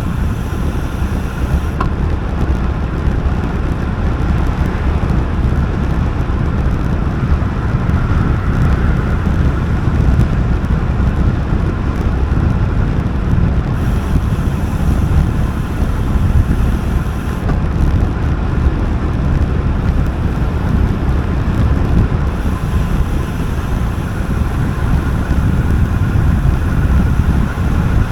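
Wind buffeting the microphone of a camera on a road bike descending at speed: a loud, steady low rumble.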